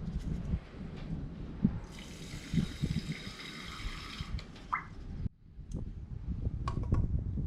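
Water pouring into an aluminium cooker for about two and a half seconds, over a steady low rumble. The pour ends with a short rising tone as the pot fills.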